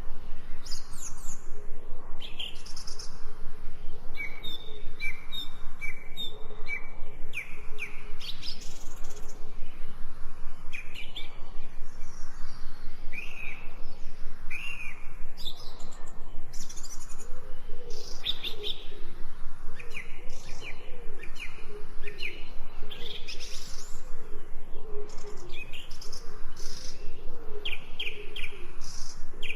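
Several songbirds chirping and whistling, with many short calls overlapping. A lower, repeated wavering call joins in about halfway through.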